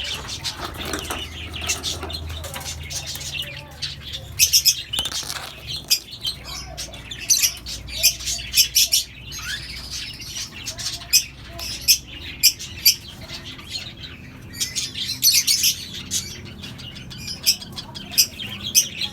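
Budgerigar chicks calling: clusters of short, sharp, high cheeps that come in bursts every few seconds.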